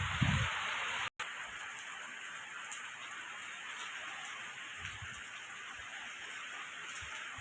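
Steady hiss of heavy rain falling during a storm, broken by a brief dropout about a second in.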